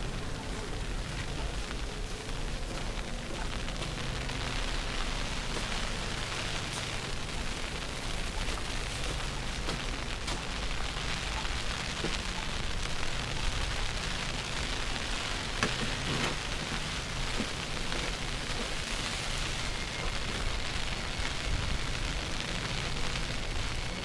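Steady outdoor ambience of a city street in a snowstorm: an even hiss over a constant low rumble, with a few faint clicks.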